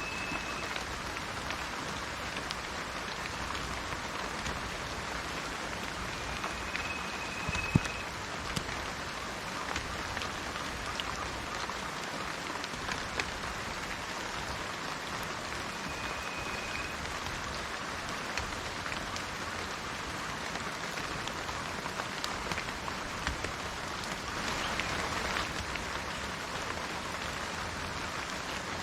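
Steady rain falling on leaves and garden, an even hiss with many small drops tapping. There is a sharper drip about eight seconds in, and a brief heavier patch of rain a few seconds before the end.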